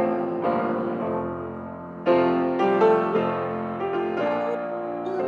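Piano playing a slow hymn tune, chords struck a few times and left to ring and fade between them.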